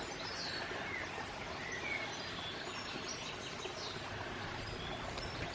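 Outdoor countryside ambience: several small birds chirping with short high calls here and there over a steady background hiss.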